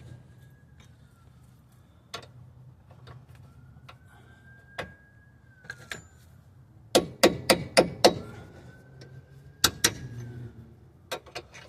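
Sharp metal-on-metal knocks and clinks as suspension parts are worked into line: scattered single clicks, then a quick run of about five strikes in the middle and a few more near the end.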